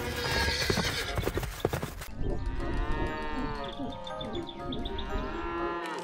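Cartoon cow sound effects: a couple of long, drawn-out moos rising and falling in pitch, starting about two seconds in. Before them, a dense clatter of many quick knocks, with music underneath.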